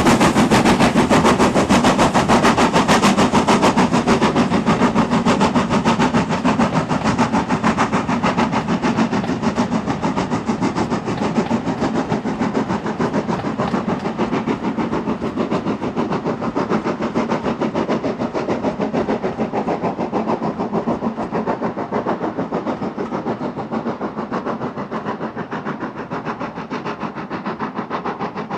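Steam locomotive exhaust with rapid, even chuffs, loudest at the start and fading steadily as the engine draws away.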